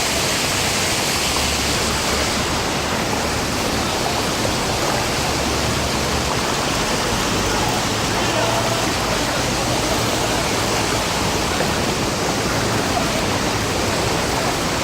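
Steady rushing noise of heavy rain and running water.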